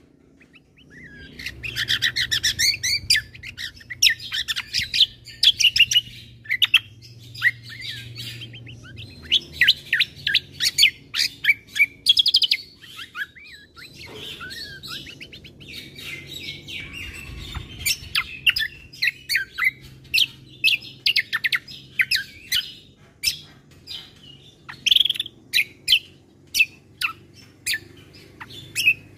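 Kecial kombo (cucak kombo) singing: a long, varied song of rapid chirps and trilled runs of high notes, delivered in bursts with short pauses, starting after a brief silence.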